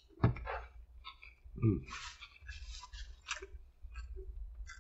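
A man chewing a mouthful of burger, with wet smacking and clicking mouth sounds and two short hums, about a quarter second in and near the second mark.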